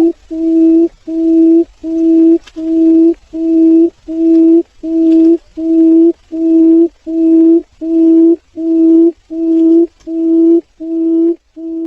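Barred buttonquail calling: a long, even series of low hooting notes, about one and a half a second, the last ones weaker near the end.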